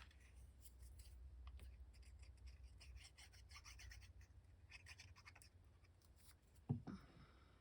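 Faint rustling and scratching of paper and card being handled and slid into place on a journal page, with a single soft tap near the end.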